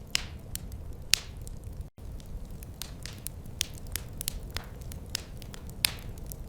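Wood fire crackling: frequent sharp snaps and a few louder pops over a steady low rumble, with a momentary break in the sound just under two seconds in.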